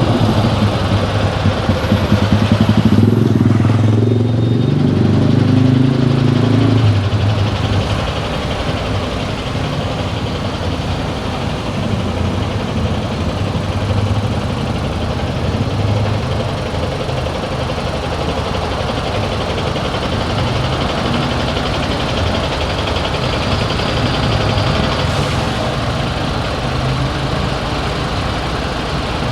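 Vehicle engine and traffic noise while driving through town streets: a louder low engine hum for about the first seven seconds, then a steady rumble of engine and road noise.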